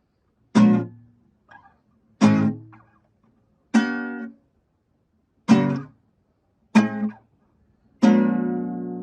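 Guitar strummed one chord at a time: six strums about a second and a half apart, each left to ring and die away, the last one ringing longest.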